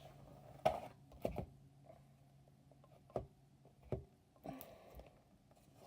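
A handful of short, light knocks and clicks, spaced irregularly, from objects being handled at a desk, over a faint steady low hum.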